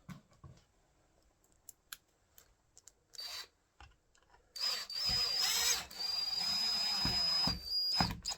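Power drill driving screws to fix a door handle and latch: a short burst about three seconds in, then a longer run of about three and a half seconds with a steady high whine, stopping with a knock.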